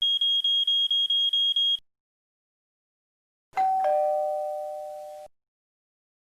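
A high electronic ring trilling at about five pulses a second for under two seconds. After a pause comes a two-note ding-dong doorbell chime, high note then low, fading away.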